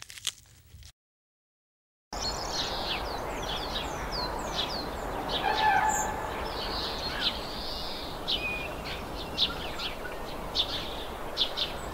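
Small birds chirping: many short, high, downward-sweeping notes over a steady outdoor hiss, starting after a brief silence about two seconds in.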